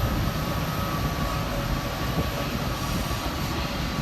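Sydney Trains electric passenger train running along the line, a steady rumble with a thin high whine that fades about halfway through.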